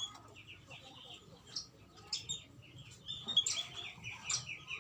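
Several birds chirping in short, high, overlapping calls at an irregular pace, busier in the second half, with one sharp click about three and a half seconds in.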